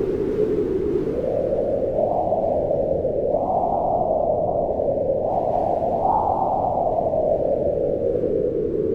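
Wind howling in slow gusts: a steady low rushing whose pitch rises and falls, swelling about three seconds in and again around six seconds, then easing off near the end.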